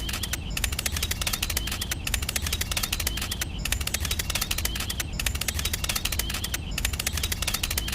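Fast mechanical clatter from a small motor-driven mechanism, many clicks a second, breaking off briefly about every second and a half.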